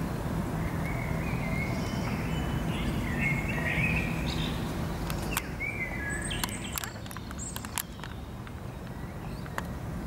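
Small birds chirping in short phrases over a steady low background rumble, with chirps through the first few seconds and again about six seconds in, and a few sharp clicks in the second half.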